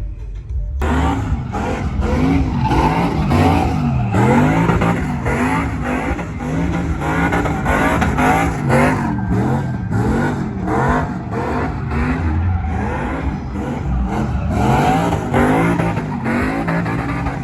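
Vehicle engines revving up and down over and over, loud and continuous.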